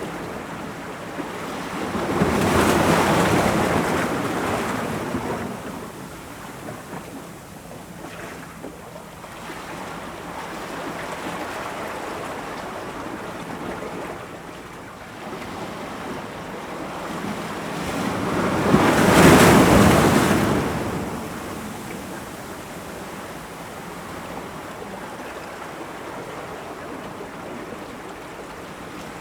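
Ocean waves breaking against rocks, with two large waves crashing, one a few seconds in and a louder one past the middle, over a steady wash of surf between them.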